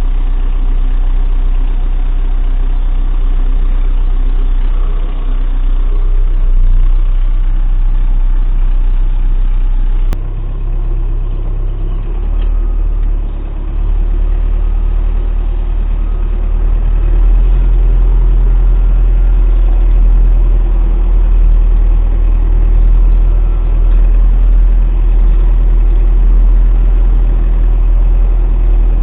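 MTZ-892 tractor's four-cylinder diesel engine running steadily. It dips briefly about ten seconds in, then runs louder and deeper from about seventeen seconds on.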